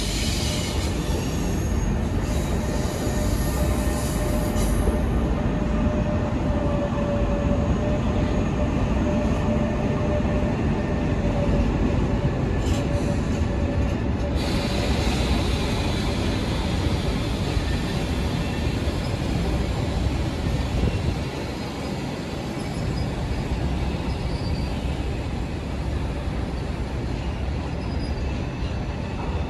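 Freight train hauled by a DB Cargo Class 185 (TRAXX) electric locomotive running past, a continuous noise of wagon wheels on the rails. A steady held tone sounds for several seconds in the first half.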